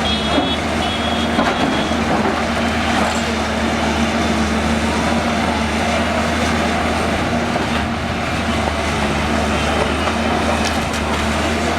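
A heavy engine running steadily, with a constant low hum over dense outdoor noise.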